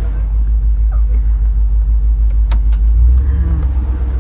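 Engine of a homebuilt two-wheel-drive mud truck running in gear with a deep, pulsing rumble, which shifts and deepens about three seconds in. A single sharp click sounds just past the middle.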